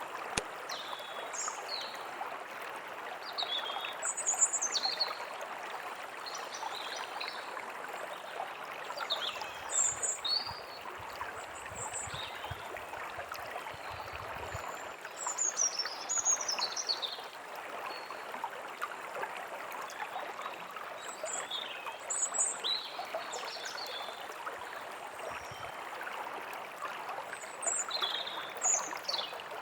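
Forest stream running steadily, with small songbirds chirping and calling in short, scattered phrases above it.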